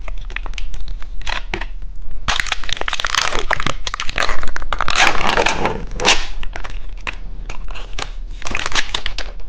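Plastic candy wrapper crinkling and crackling as a frog-shaped candy is pulled off and unwrapped, loudest in the middle.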